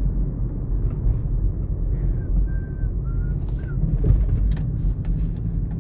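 Car driving, with steady engine and road rumble heard from inside the cabin.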